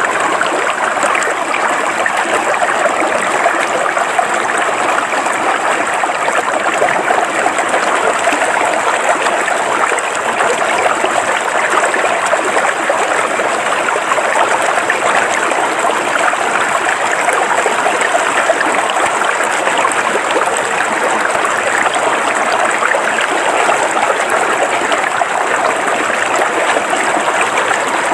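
River water flowing over rocks with a steady rushing and splashing, unbroken throughout.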